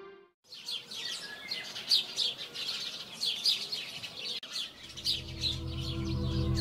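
Small birds chirping in quick, repeated high calls. About four and a half seconds in, ambient music with held low tones fades in beneath them.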